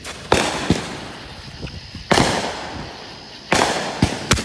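Consumer 'Chameleon' colour-changing firework cake firing: about six sharp bangs, irregularly spaced, each trailing off with a fading crackle and echo.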